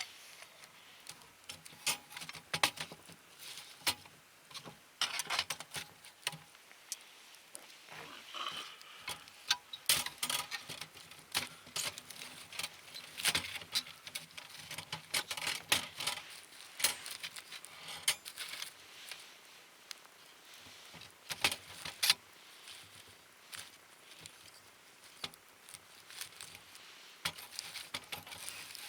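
Wood fire crackling in a fire stand, with irregular sharp pops and snaps throughout.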